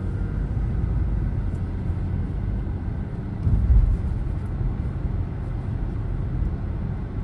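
Car driving, a steady low rumble of engine and road noise, with a brief louder thump about three and a half seconds in.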